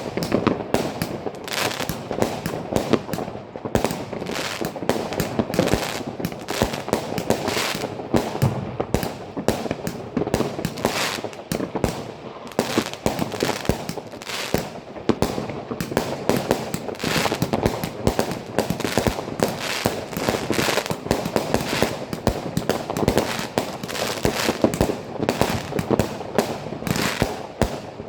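Weco 'Rising Colours' consumer firework battery firing: a rapid, unbroken string of launches and bangs, several a second, with crackling between them.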